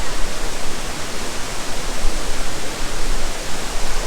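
Sekumpul waterfall's falling water, a steady rushing noise.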